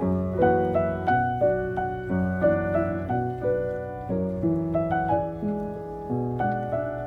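Gentle background piano music, a slow melody of single notes over held low notes.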